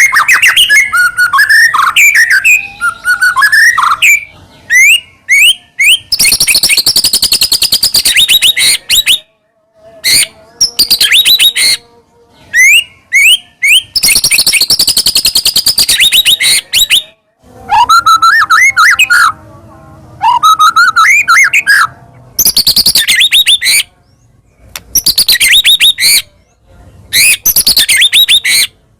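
White-rumped shama (murai batu) singing loudly: whistled phrases that slide up and down, alternating with long runs of rapid chattering notes, in bursts broken by short pauses.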